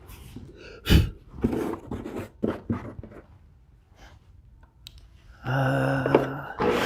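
Wood and tools being handled on a workbench: a solid knock about a second in and several lighter clicks and taps, then a small power-tool motor whirring briefly for about a second near the end.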